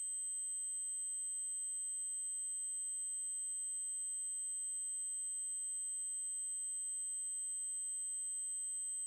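Steady, high-pitched synthesized test tone: an 8192 Hz triangle wave, held at one pitch and level throughout.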